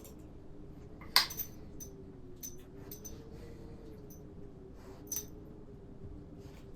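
A spoon clinking against a bowl while stew is eaten: one sharp clink about a second in, then a few lighter taps and scrapes.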